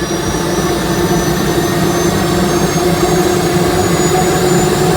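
Boeing T50 gas turbine engine spooling up just after light-off. A high turbine whine climbs slowly in pitch over a steady low rumble.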